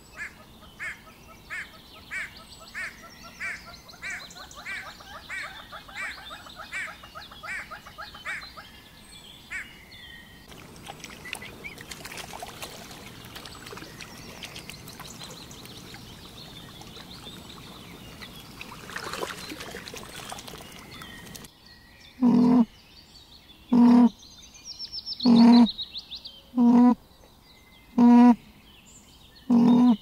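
Animal calls in three parts: first a fast run of short calls, about two a second, for some nine seconds; then a stretch of steady outdoor noise; then, for the last eight seconds or so, loud short calls about every second and a half.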